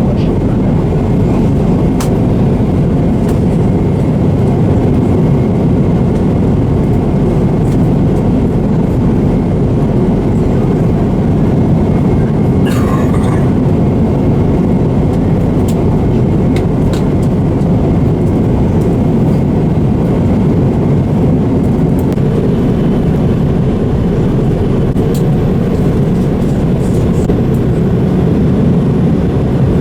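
Steady cabin noise of an airliner on approach, heard from inside the cabin: a constant low rumble of engines and airflow, with a few faint clicks.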